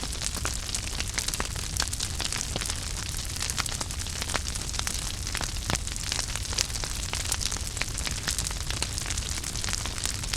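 Wood fire burning in a fireplace: a steady hiss and low rumble with frequent irregular crackles and pops.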